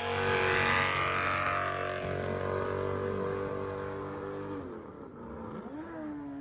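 Car engine running with a steady held drone that fades after a couple of seconds. Near the end the pitch drops and climbs again as an engine is revved.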